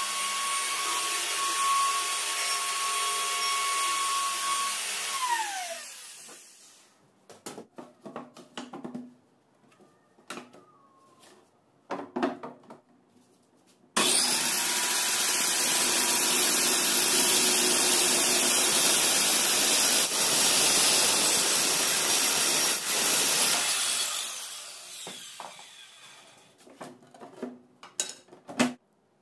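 Circular saw mounted as a table saw, its motor running with a steady whine, then switched off and winding down in pitch. After a few seconds of scattered knocks and clicks, it starts again suddenly about halfway through, runs steadily for about ten seconds, and winds down again, with a few more knocks near the end.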